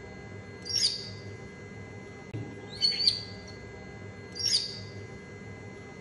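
Short, high bird chirps: a quick pair, then a single chirp, the same pattern repeating evenly about every three and a half to four seconds.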